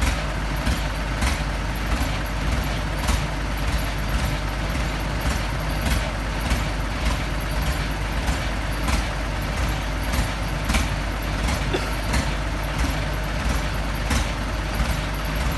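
Heavy diesel machinery running steadily, the engine of an excavator at work, with a constant low rumble and short sharp ticks now and then.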